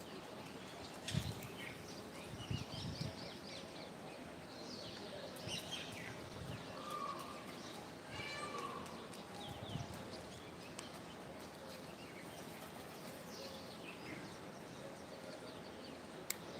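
Birds chirping in short, scattered calls and quick falling sweeps over steady background noise, with a few brief knocks, the loudest about a second in.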